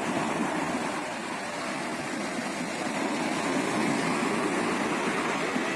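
Sea waves washing onto the shore: a steady rush of surf that swells a little about three to four seconds in.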